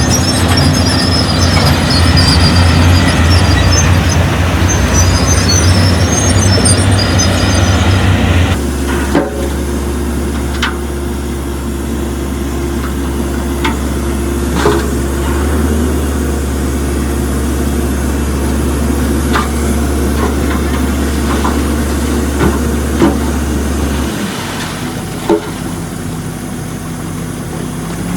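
Heavy diesel earthmoving machinery running with a steady low engine hum. About eight seconds in, the sound changes abruptly to a quieter, steady engine drone with occasional short knocks.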